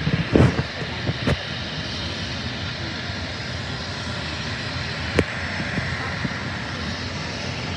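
Steady aircraft engine noise, with a few short knocks in the first second and one more about five seconds in.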